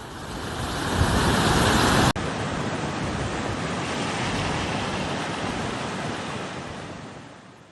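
Steady rushing noise of storm floodwater, rising over the first two seconds, then cut abruptly to a second, similar stretch of rushing noise that fades out near the end.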